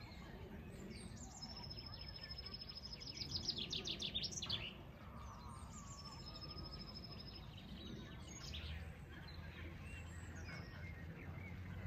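Songbird singing over a low background rumble: a thin, high held note runs into a rapid trill, the loudest part, about three to four and a half seconds in, and a second high held note follows about two seconds later.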